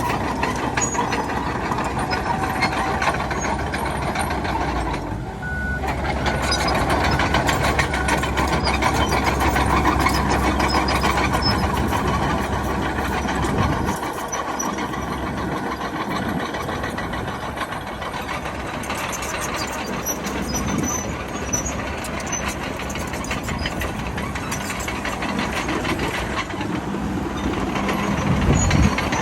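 Bulldozer working, its diesel engine running with a steady clatter, and a back-up alarm beeping as it reverses. The deep engine rumble eases about halfway through.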